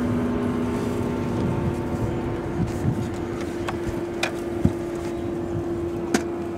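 Boat's outboard motor running steadily at idle, a low even hum, with a few sharp knocks from handling in the boat.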